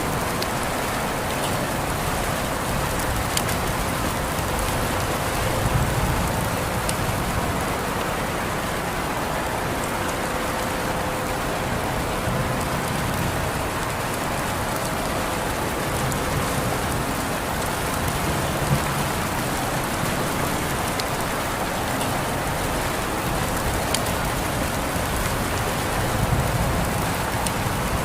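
Steady rain falling, a dense even hiss with scattered sharp drop ticks; a low rumble swells briefly twice, about six seconds in and near the end.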